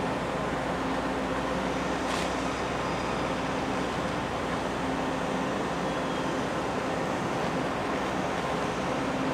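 Ferry engine running as a steady low hum, with continuous wind and water noise.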